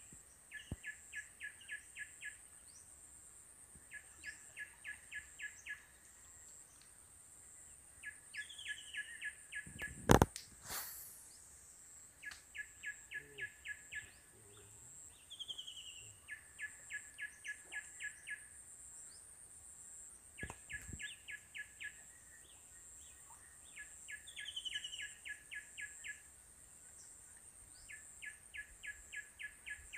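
A songbird singing the same phrase over and over, every three to four seconds: a short falling note, then a quick run of about eight notes. A steady high-pitched insect-like whine runs underneath, and a single sharp knock comes about ten seconds in, with a fainter one about twenty seconds in.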